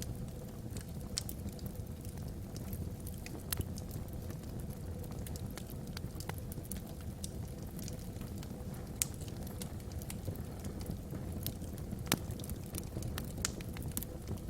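Wood fire burning in a fireplace: logs crackling with irregular sharp pops over a steady low rumble, with two louder pops in the second half.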